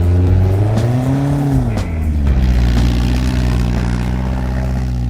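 Engine running steadily, revved once about a second in and settling back to a steady run.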